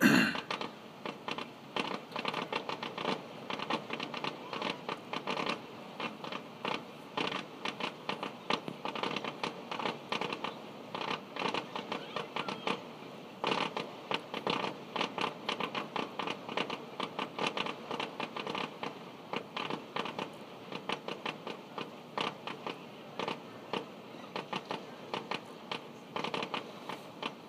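Fireworks finale: a rapid, unbroken barrage of sharp pops and bangs, several a second, with the loudest bang at the very start.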